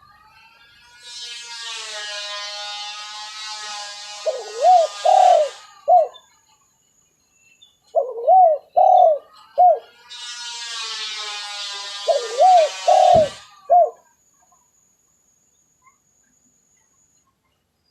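Spotted dove cooing in three phrases, each of two notes close together and then a shorter third, played as a recorded lure call. A quieter, long buzzing sound runs behind the first and last phrases.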